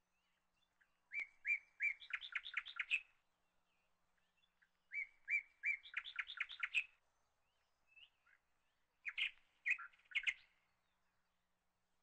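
A songbird singing: two similar phrases, each a few clear whistled notes running into a fast trill, then a shorter burst of notes near the end.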